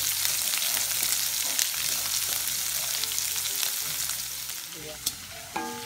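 Whole shallots sautéing in hot oil in a kadai, a steady sizzle with occasional clicks and scrapes of a steel ladle stirring them. The sizzle eases off near the end.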